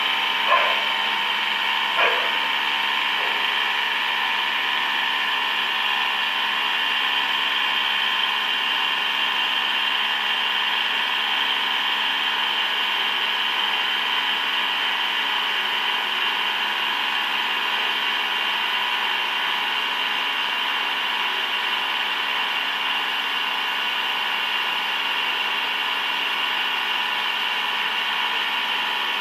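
Heavy machine tool running steadily with a constant mechanical whine made of several held tones. A couple of short knocks come near the start.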